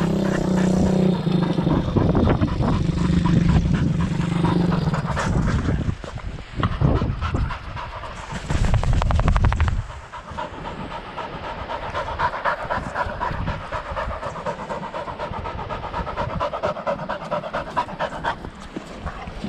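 Thumpstar pit bike's single-cylinder engine running, louder for a few seconds before it cuts off about halfway through. Then a dog panting rapidly.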